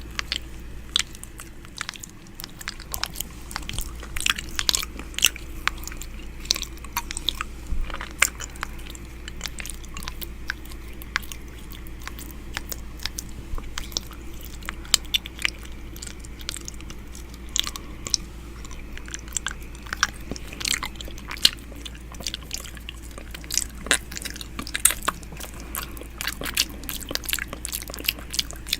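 ASMR "ear eating" mouth sounds right at the microphone: wet clicks, smacks and licking noises coming thick and irregular, with no rhythm.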